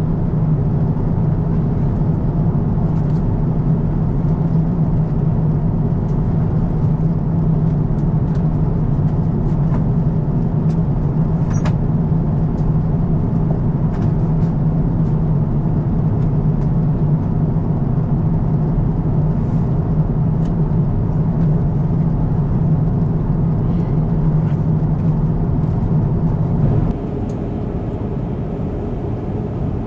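Steady low drone of an Airbus A350-1000 cabin in flight, with a few faint clicks; the drone drops in level suddenly about 27 seconds in.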